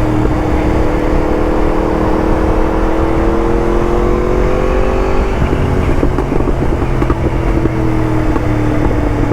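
Yamaha MT-10's crossplane inline-four through an Akrapovic titanium exhaust, pulling steadily up through the revs for about five seconds. Then the throttle closes, and the exhaust crackles and pops on the overrun for a couple of seconds before settling to a steady cruise.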